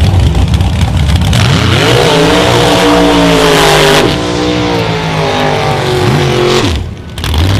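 A drag-racing pickup and a Ford launching and accelerating hard down the strip. The engine pitch climbs for a couple of seconds, then bends and falls as they go away, and the sound drops off sharply near the end.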